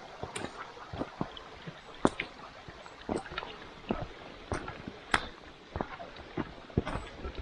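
Footsteps crunching and knocking irregularly on a stony, wet path, about two a second, with water trickling from a small stream being crossed.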